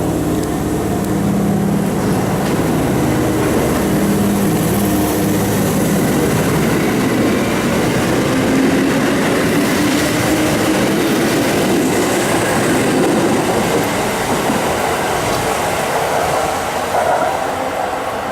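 Kintetsu electric train running on the rails close by. Its motors hum with several held tones in the first few seconds over a steady rumble of the wheels, and the sound eases off near the end.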